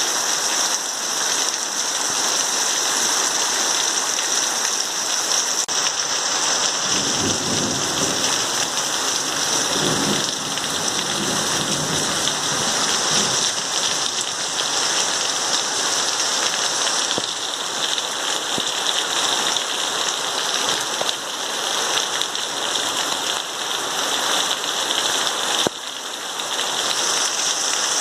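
Heavy rain pouring steadily, with a low rumble of thunder rolling through for several seconds around the middle.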